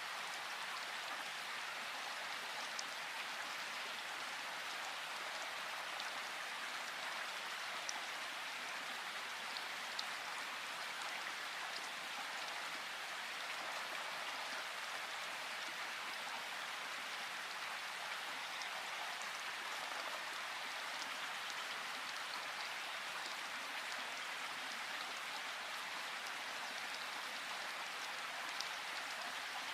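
Steady rain falling in a forest: an even hiss of rainfall with scattered light drip ticks.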